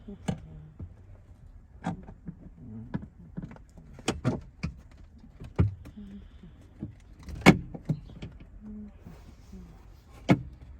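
Irregular sharp clicks and knocks of parts and tools being handled and pressed into place in a car's interior during seatbelt retractor refitting, the loudest about seven and a half seconds in.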